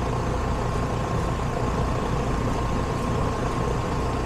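Air-conditioning condenser unit running steadily: an even compressor-and-fan hum with a thin, steady high tone above it.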